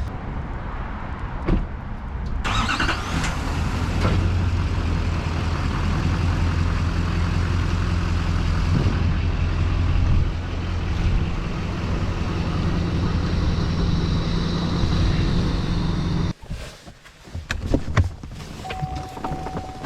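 Pickup truck running on the road: a steady low engine hum with wind and road noise. It comes in suddenly about two seconds in and cuts off abruptly near the end, leaving a few clicks.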